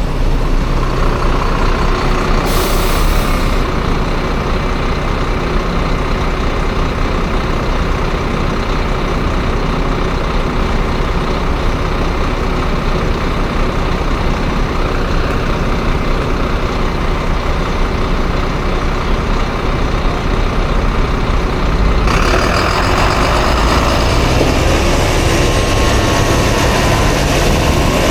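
Small Dio-engined scooter running in city traffic, a steady engine and road noise with heavier vehicles around it. About two-thirds of the way through the sound brightens, and near the end the engine note rises as it speeds up.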